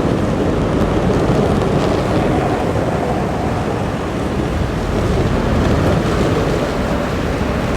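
Snow plow truck at work, its engine running under the steady rushing of the plow blade pushing snow along the road.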